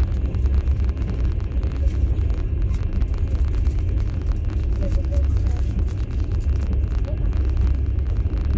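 Passenger train running, heard from inside a platzkart open-berth sleeper carriage: a steady low rumble of the wheels and carriage body with a constant patter of small rattles.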